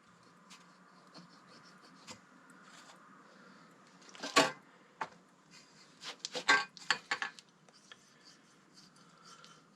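Scattered light clicks and clinks of metal engine parts being handled during engine assembly. The loudest is a sharp click about four seconds in, followed by a quick run of clicks a couple of seconds later.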